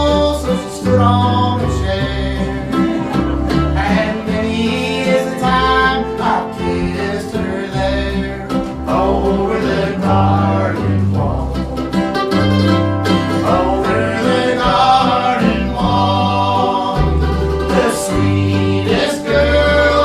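Old-time string band playing live: plucked guitar and strings over a bass line that steps from note to note, with sliding melody notes above.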